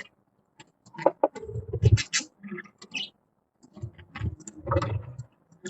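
Budgies chattering in irregular bursts of short chirps and sharp clicks, with a couple of louder, duller low thumps about a second and a half in and again around four to five seconds in.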